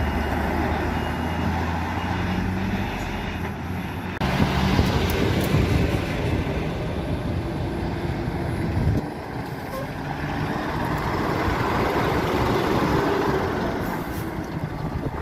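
Heavy vehicle engine running steadily with a low hum and noise over it; the sound changes abruptly about four and nine seconds in, as between different shots.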